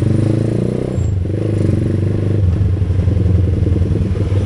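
Motorcycle engine running while riding, its note shifting down about a second in and changing again around the middle.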